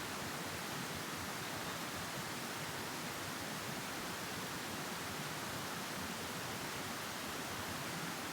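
A steady, even hiss with no bird calls or other distinct sounds.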